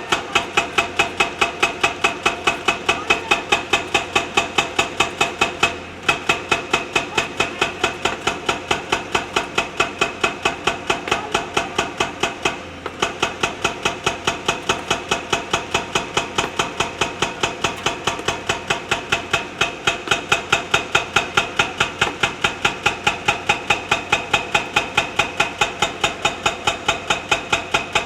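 Hydraulic rock breaker on a JCB backhoe pounding stone: sharp metallic blows at about four a second, very even, over the machine's engine, stopping briefly twice.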